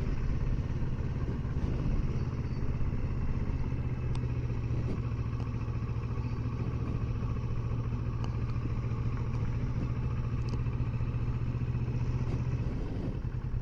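Kawasaki Versys 650's parallel-twin engine running steadily at low riding speed, with road and wind noise, heard from on the motorcycle.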